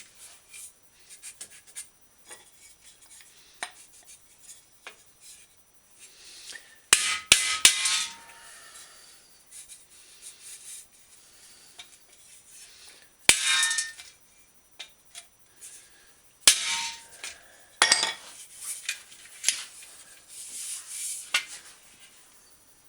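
Metal work on a Schwinn bicycle fender: a few sharp hammer strikes, the loudest ringing briefly, with lighter taps and scraping of metal between them, as a dent is worked out.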